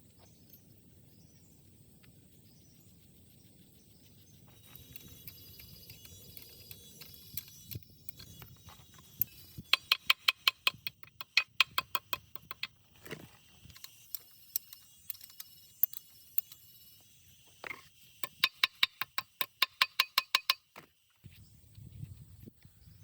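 Metal tool striking or clicking against metal in quick runs of sharp, ringing clicks, about five a second, with a pause partway through.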